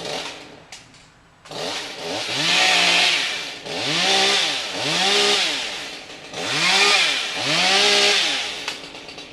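Chainsaw starting up about a second and a half in, then its engine speed rising and falling about five times.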